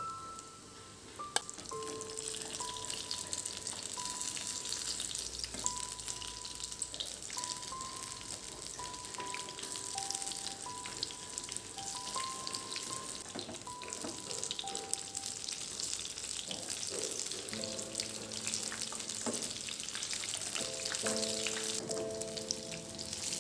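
Food frying in hot oil, a steady crackling sizzle, with one sharp click about a second in, over soft background music.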